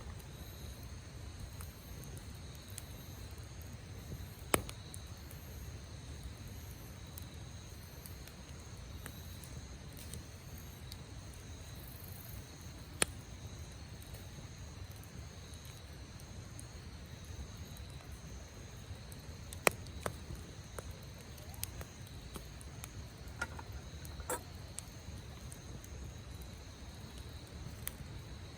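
Wood campfire crackling, with a handful of sharp pops standing out over a steady low rumble, while insects trill steadily.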